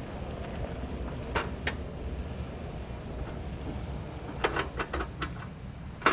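Small knocks and clicks of gear being handled, two about a second and a half in and a quick run of five or six near the end, over a steady low outdoor rumble.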